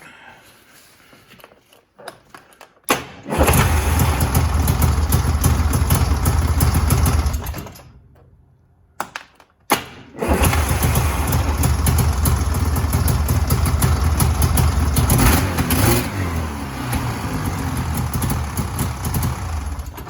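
Yamaha Viking snowmobile engine started on its freshly repaired electric starter, fitted with new brushes. It fires about three seconds in, runs for about four seconds and stops, then is started again about ten seconds in and keeps running steadily: the repaired starter is working.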